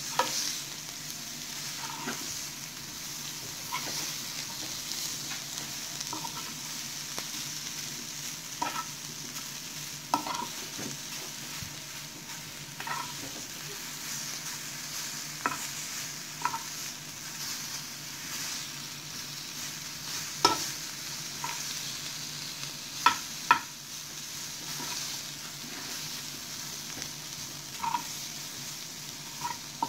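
Bitter gourd slices sizzling steadily as they shallow-fry in oil in a nonstick pan. Sharp clicks and taps of a spatula against the pan come every few seconds as the slices are turned over, with a few louder knocks past the middle.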